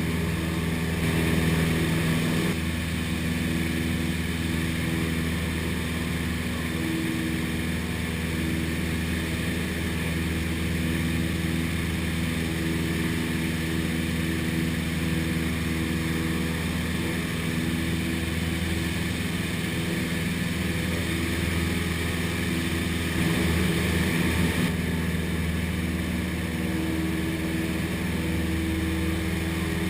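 Cessna 172's piston engine and propeller droning steadily in flight, with slight shifts in tone about a second in and again after about twenty-three seconds.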